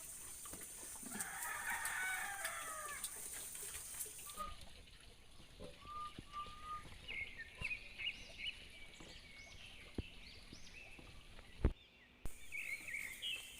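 A rooster crowing about a second in, followed by scattered short, high chicken calls, with a single sharp knock near the end.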